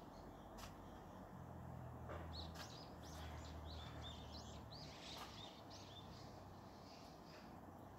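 Faint birdsong: a quick run of chirping, warbling notes that starts about two seconds in and fades out after about six seconds, over a low background rumble.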